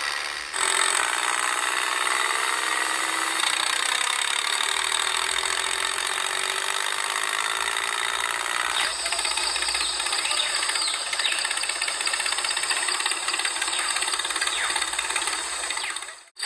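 Small electric motor of a miniature model tractor whirring steadily with gear noise, changing in pitch slightly under load. The sound changes abruptly about half a second in and again about nine seconds in, then cuts off just before the end.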